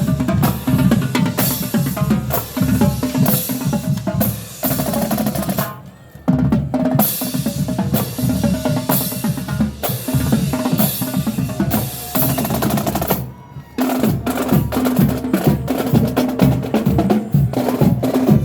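Marching band drumline playing: snare drum rolls and rim shots over bass drum beats, in a steady rhythm. The playing drops out briefly twice, about six and thirteen seconds in.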